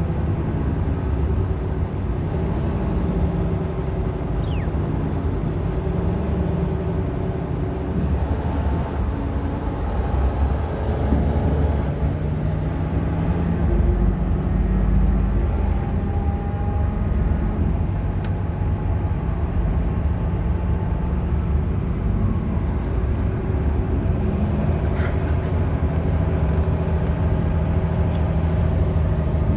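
Bus engine running with road noise, heard from inside the passenger cabin; the engine's pitch shifts up and down a few times as it changes speed.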